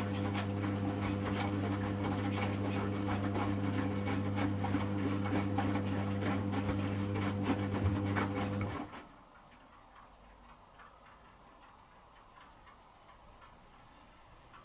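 Servis Automatic M3008B washing machine's motor turning the drum during the heating stage of a 40°C wash, a steady hum with many small clicks from the tumbling load. It stops suddenly about nine seconds in for the pause in the wash rhythm and starts again at the very end.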